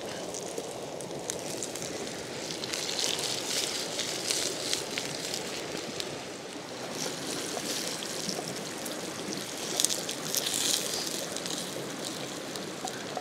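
Potato chunks, jalapeño slices and garlic sizzling in olive oil in a skillet over a campfire, the sizzle and crackle swelling twice, about a third of the way in and again later. Under it runs the steady rush of a creek.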